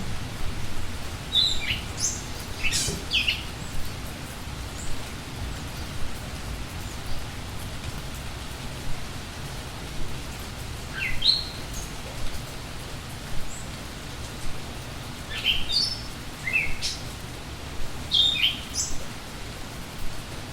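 Steady rain with songbirds chirping. The short, high calls come in small clusters near the start, around the middle and again toward the end.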